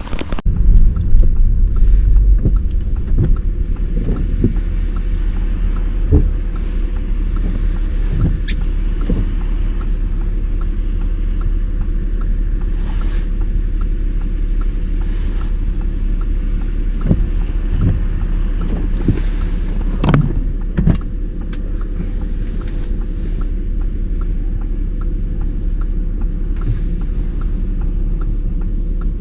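Car driving on a snow-covered road: a steady low rumble of engine and tyres, with a few short knocks.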